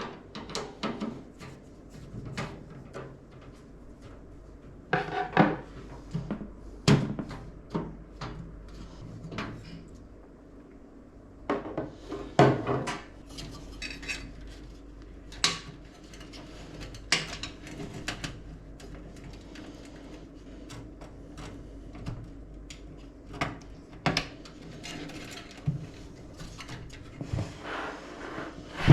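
Irregular clicks, taps and clinks of metal and plastic PC parts being handled and fitted during a computer build, with louder knocks around five, seven and twelve seconds in.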